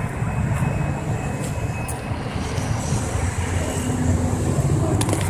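Steady low rumble of a car's engine and road noise, heard from inside the vehicle, with a couple of sharp clicks near the end.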